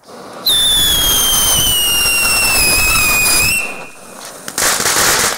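A whistling firework screams loudly for about three seconds over a rushing hiss, its pitch sliding slowly down. A hissing, crackling burst follows near the end, then the first sharp bangs.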